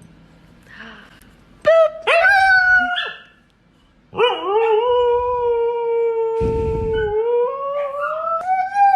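Dog howling: a couple of short rising yelps about two seconds in, then one long howl from about four seconds in that holds its pitch and climbs near the end. A brief low rumble sounds partway through the long howl.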